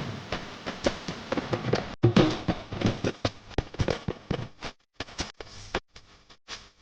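Irregular crackling and popping, many quick snaps close together at first, thinning out to a few scattered pops near the end.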